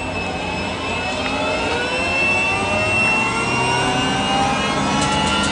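Jet airplane engine sound effect: a steady whine with a high tone, climbing slowly in pitch.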